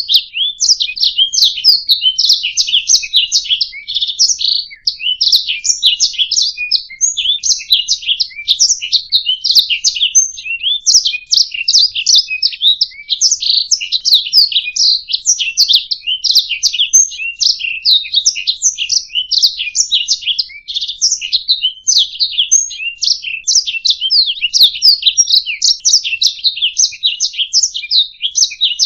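Domestic canary singing a long, unbroken song of rapid chirps and trills, high-pitched and without pauses.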